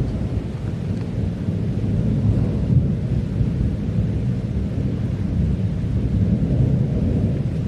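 Thunder rumbling low and steady through a heavy rainstorm, with rain hiss underneath.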